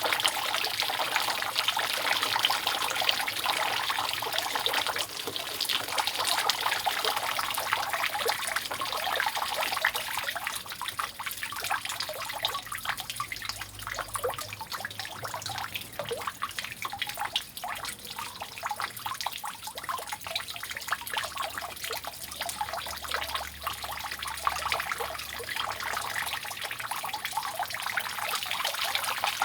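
Rainwater dripping and trickling steadily off a roof, a dense patter of drops. It thins out for a while in the middle and fills in again near the end.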